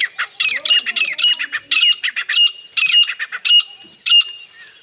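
A partridge calling in full voice: a rapid run of loud, shrill, repeated calls, several a second, that stops about four seconds in.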